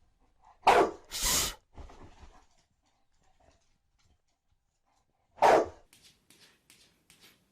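A dog barking: single short barks about a second in and again near the end, with a long pause between.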